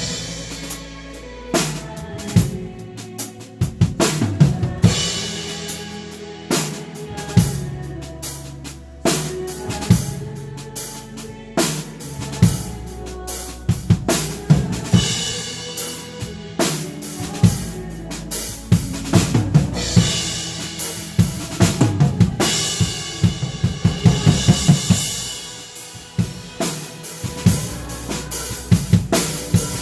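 Drum kit playing a worship song: bass drum, snare and cymbal hits in a steady groove over pitched instrumental accompaniment. The playing gets busier with denser, louder hits about two-thirds of the way through.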